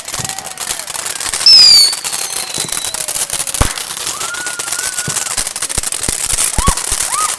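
Fireworks crackling with a rapid, continuous spatter of pops, and a loud high whistle about a second and a half in that falls slightly in pitch.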